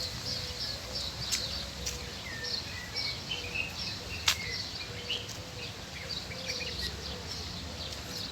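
Small birds chirping in short repeated bursts over a low outdoor background rumble, with a few sharp clicks, the loudest about four seconds in.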